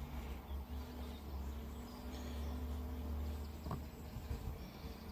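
Camera drone's propellers humming steadily in flight, a faint buzz of several steady tones, over a low wind rumble on the microphone.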